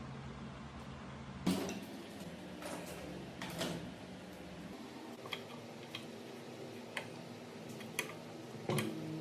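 Irregular sharp metallic clinks and taps, roughly one a second, from metal tools and parts being handled, with a loud knock about one and a half seconds in and another near the end.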